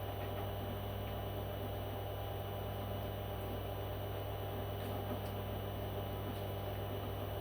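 A steady low hum under a faint hiss, with a few faint clicks about five seconds in.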